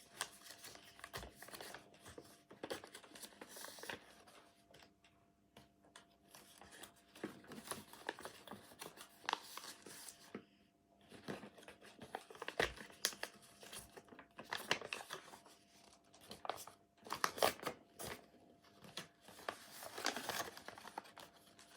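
Paper rustling and crinkling in irregular bursts as a sheet is handled, folded and creased by hand.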